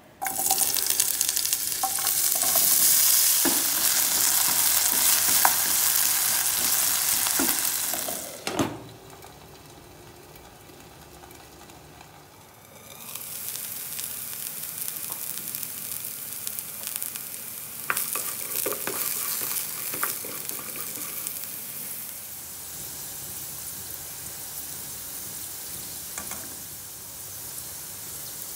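Cubed potatoes sizzling in hot oil in a non-stick pan, the loud sizzle starting suddenly as they go in. It drops away after a knock about eight seconds in, then picks up again more gently from about thirteen seconds, with a few clicks of a spatula stirring them.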